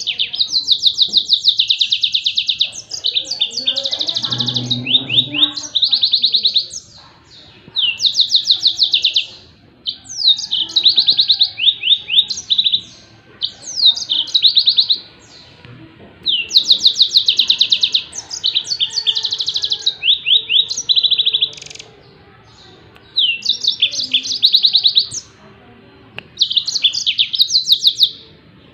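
Yellow-fronted canary (Mozambique canary) singing its rapid-fire 'tembakan' song: bursts of fast, high trilled notes lasting one to two seconds each, repeated with short pauses between them.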